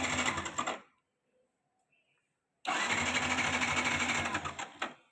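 Yamaha FZS motorcycle's single-cylinder engine being cranked twice, without catching. The second try is the longer, about two seconds. The bike is failing to start.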